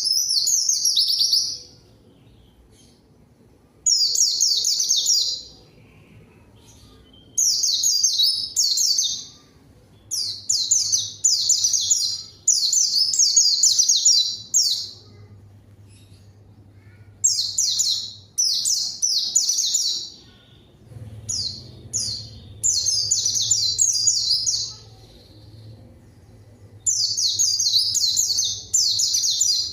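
White-eye (pleci) singing a lively 'gacor' song in high, fast, twittering phrases of one to two seconds, repeated again and again with short pauses: the kind of song used to provoke other white-eyes into answering.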